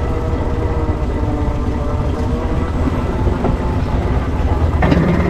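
6-inch scale Foden C-type steam wagon under way, a steady running rumble of its twin-cylinder engine and wheels. Near the end a loud, steady low tone starts suddenly over it.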